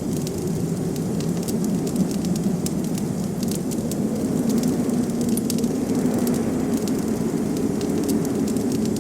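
Fireplace fire crackling with frequent small, irregular pops over a steady low rush of blizzard wind.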